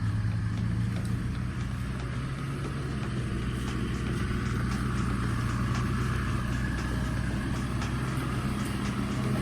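Off-road vehicle's engine running steadily at low, even revs.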